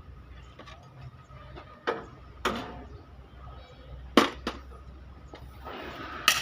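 Sharp metallic clanks of hammer blows on sheet metal, as in panel denting work: five strikes with a short ring, loosely paired. A steady rushing noise comes in near the end.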